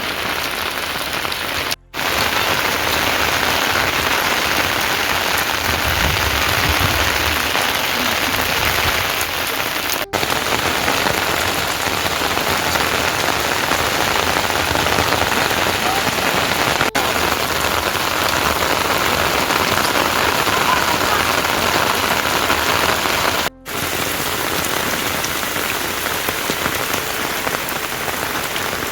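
Heavy rain falling steadily, an even hiss of rain on surfaces. The sound breaks off for an instant a few times.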